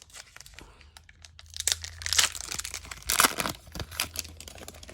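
Plastic trading-card pack wrapper crinkling and tearing as a hockey card pack is ripped open and handled, with two louder crackling bursts about two and three seconds in among small clicks.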